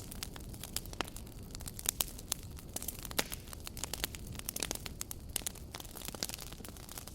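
Campfire burning, wood crackling and popping with irregular sharp snaps over a low steady rumble.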